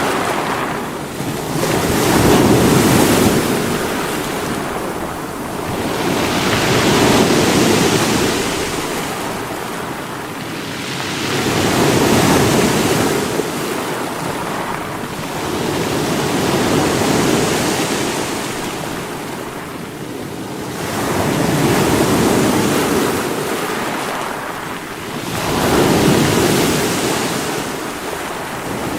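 Sea waves breaking against rocks, a rushing surf that swells and falls back in about six surges, one every four to five seconds.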